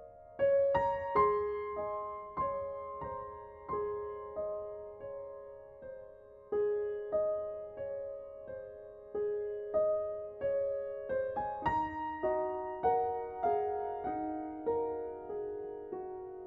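Soft, slow solo piano music: single notes struck one after another and left to ring and fade.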